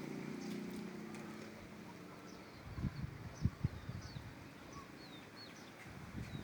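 Wind gusting against the microphone in irregular low thumps, with faint short chirps of small birds calling now and then.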